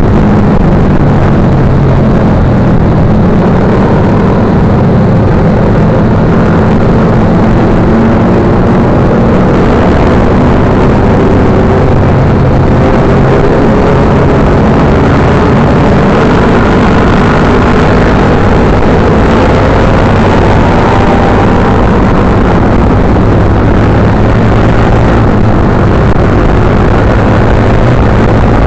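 Motorcycle engine running under way, its pitch slowly rising and falling with the throttle, under loud, steady wind noise on the microphone.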